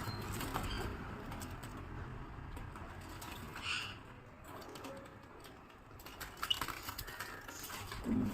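Faint scattered clicking and tapping over a low steady hum, with a few short high chirps from pet birds.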